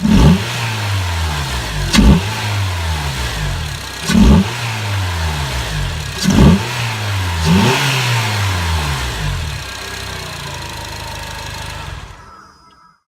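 Honda RB1 Odyssey's 2.4-litre four-cylinder engine blipped from idle five times, about every two seconds, each rev rising and falling straight back, then idling steadily. The sound cuts off near the end.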